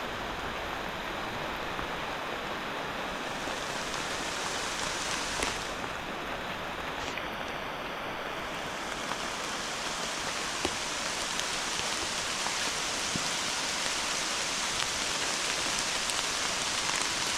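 Heavy rain falling steadily, an even hiss with scattered drop ticks, mixed with the rush of a swollen, flooded creek.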